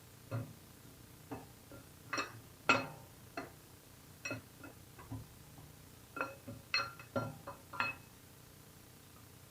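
Light metallic clinks and taps at irregular intervals, each with a brief ring, as an LS engine's camshaft is slid slowly out of the block, its lobes and journals touching the cam bearings; the sharpest clink comes between two and three seconds in.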